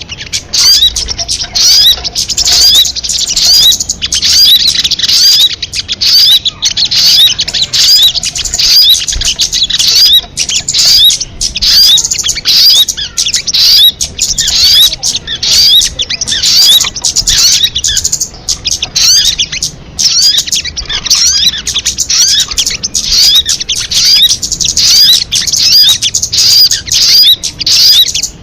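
Sogon bird song: a dense, continuous stream of rapid high-pitched chirps and trills, broken only by brief pauses.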